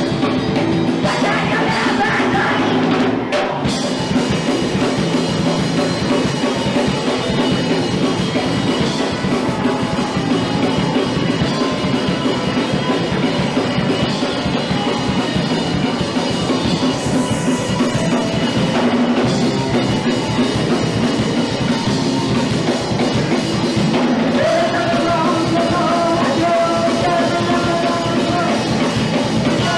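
Punk rock band playing live at full volume: drum kit and amplified instruments, with vocals near the start and again in the last few seconds.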